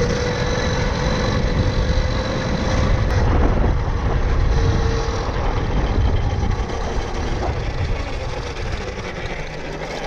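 Tuttio Soleil 01 electric dirt bike's motor whining steadily while riding, fading out a few seconds in and briefly returning, over heavy wind rumble on the microphone.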